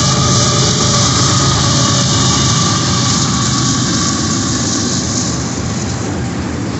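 Florida East Coast diesel-electric freight locomotives passing close by: a loud, steady engine drone with a high whine over it. The whine fades about halfway through as the container cars roll past behind them.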